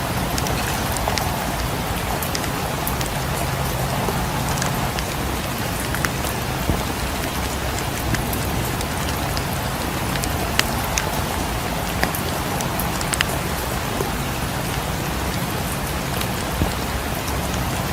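Steady rain, with a low rumble beneath it and scattered sharp pops of a crackling wood fire through it.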